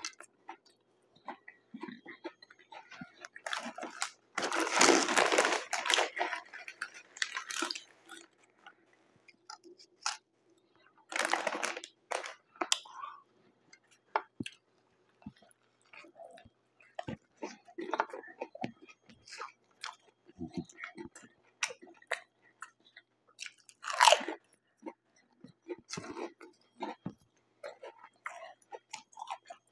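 Close-miked eating: chewing with many small mouth clicks, broken by louder crunching of potato chips. The longest run of crunching comes about four to eight seconds in, with shorter crunches near twelve and twenty-four seconds.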